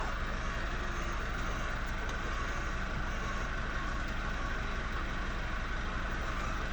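A motor running steadily, a low hum with a fast, even pulse and a constant whirring noise above it.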